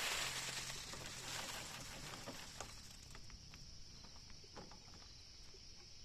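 Steady high-pitched insect chorus, with a burst of rustling at the start that fades over a second or so and a few light clicks and taps.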